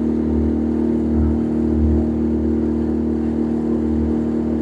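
Small gasoline motorboat engine running at a steady speed, an even drone that holds without change.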